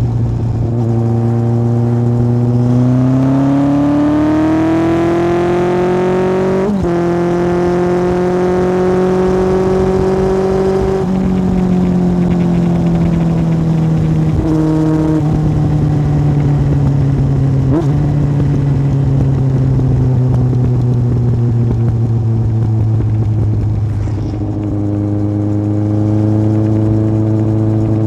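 Yamaha Fazer 1000's inline-four engine through an aftermarket MIVV exhaust while riding: the engine pulls up in pitch from about three seconds in, with a brief break near seven seconds. The note then holds and slowly falls away as the bike slows, with a couple of short breaks along the way, and rises slightly again near the end.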